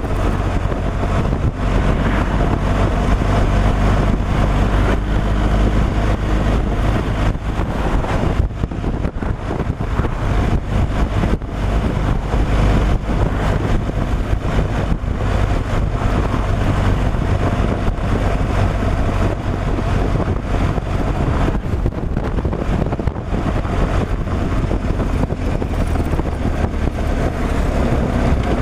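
Semi-truck's diesel engine running steadily at cruise with a low hum, under a constant haze of road and wind noise and a few light knocks.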